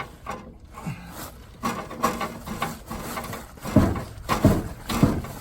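Irregular knocks, clanks and scraping of hand tools worked against a stuck starter bolt under a truck, with a few heavier thumps about four seconds in. The bolt is seized tight.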